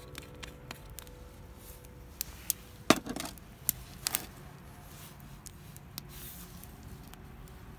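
A few sharp clicks and clinks over a low steady background, the loudest about three seconds in.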